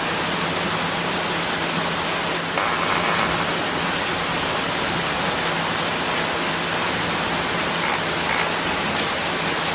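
Monsoon rain falling steadily at a moderate rate, an even hiss of drops with a few faint individual drop ticks.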